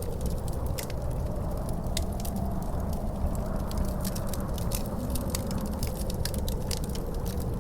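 Log fire crackling in a fireplace, with frequent sharp irregular pops, over a steady low rumble of howling wind whose pitch slowly rises and falls.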